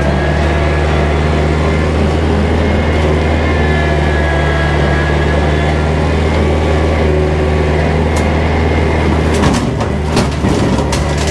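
Kubota tractor's diesel engine running steadily while bush hogging, with a few sharp cracks and knocks near the end.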